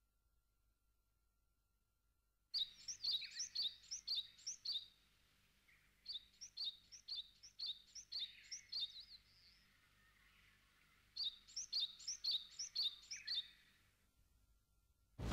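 A small bird chirping in three quick runs of short, high notes, about four a second, with brief pauses between the runs. The chirping starts a couple of seconds in.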